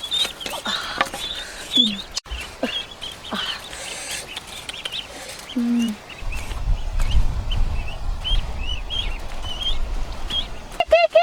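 Birds chirping over and over in short, high, hooked peeps, with a few knocks and a low rumble through the middle. Near the end a louder, lower call starts and repeats several times in quick succession.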